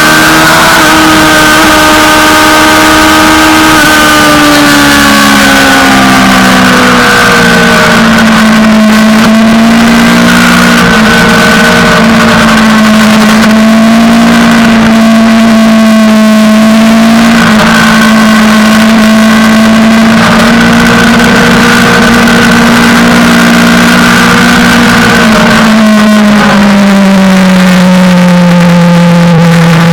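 Suzuki GSX-R600 sportbike's inline-four engine at speed on track, heard loud over wind rush. The engine note drops in pitch a few seconds in, holds mostly steady for a long stretch, then falls lower again near the end before starting to climb.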